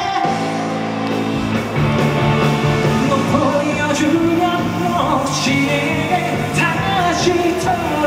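Live band and singer performing an upbeat, rock-tinged dance song, with sustained instruments and sung lines over a steady beat.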